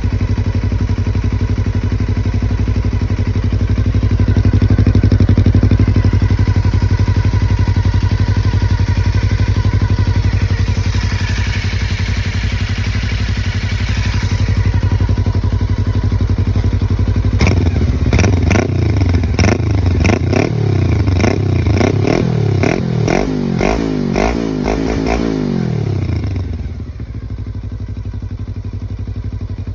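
Suzuki V-Strom 250 motorcycle fitted with an aftermarket exhaust, idling steadily. About halfway through it is revved in a quick series of throttle blips, each rising and falling, then it settles back to idle.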